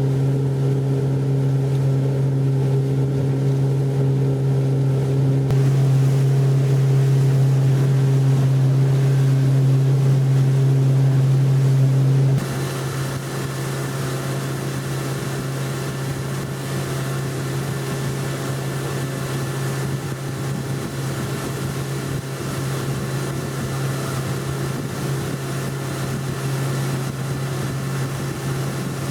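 Yamaha F90C four-stroke outboard motor running steadily at speed, a constant drone with wind and water noise. About twelve seconds in the sound shifts abruptly, the drone a little quieter and the hiss of wind and water more prominent.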